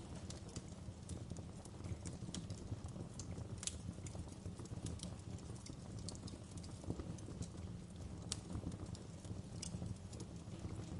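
Wood fire crackling in a fireplace: irregular sharp pops and snaps, the loudest about four and eight seconds in, over a steady low rushing hiss of flames and rain.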